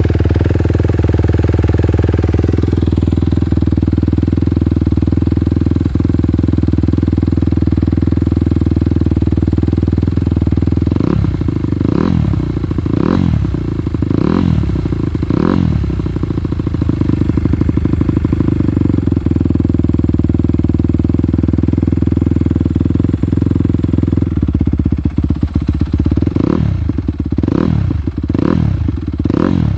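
Honda CRF250R single-cylinder four-stroke with Yoshimura RS-9 twin exhausts, just cold-started and idling steadily. About five quick throttle blips run from about eleven seconds in, and another quick run of blips comes near the end.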